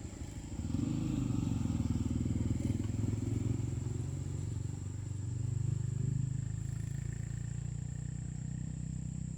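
A motor vehicle engine running close by, getting louder about a second in and swelling again around six seconds.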